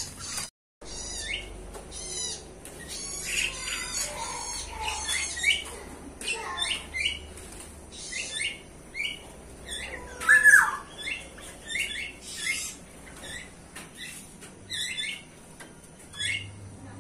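Several birds chirping and calling over one another, with quick high trills and short repeated notes. About ten seconds in, one louder call slides down in pitch. The sound cuts out completely for a moment just after the start.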